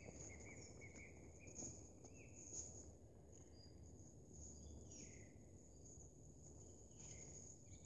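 Near-silent woodland with faint wild bird calls: a quick run of short notes, then a single falling call about five seconds in and another near the end.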